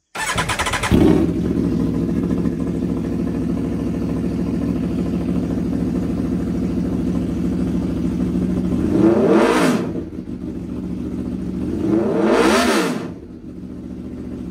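Aprilia Tuono V4 Factory's V4 engine, breathing through an aftermarket LeoVince exhaust, is started with a brief crank and catches about a second in. It then idles, with two quick throttle blips about three seconds apart that rise and fall in pitch. The idle sits lower after the second blip.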